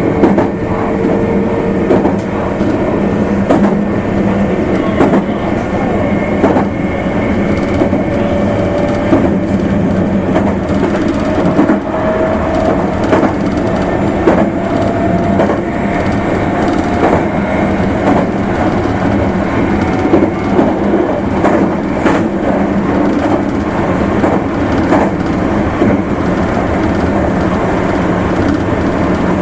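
Meitetsu limited express electric train running along the line, with a steady rumble and regular clickety-clack of the wheels over rail joints. A motor whine rises slowly in pitch through most of the stretch, as the train gathers speed, then fades.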